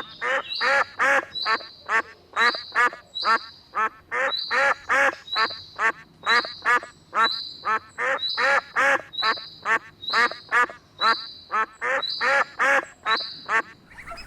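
Duck quacking over and over, a quick steady series of about two or three quacks a second.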